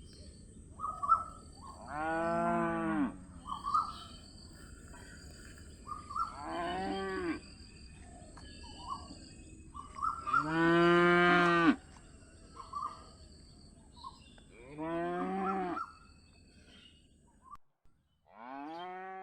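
Calf mooing: four drawn-out calls a few seconds apart, each about a second long and arching in pitch, the third the longest and loudest, with a fifth call starting at the very end.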